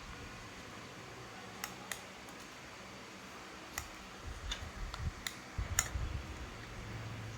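About half a dozen light, sharp clicks and taps, scattered irregularly, over steady background hiss. Low rumbling handling noise comes in about halfway through.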